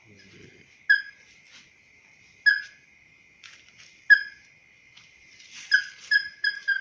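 Short whistled lure calls for crakes (burung tikusan), single notes repeated about every one and a half seconds and coming faster and closer together near the end. Under them runs a steady thin high drone.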